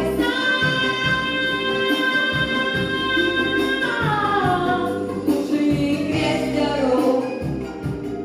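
Female pop singer holding a long high note over a backing track, then sliding down in pitch about four seconds in and singing another short phrase.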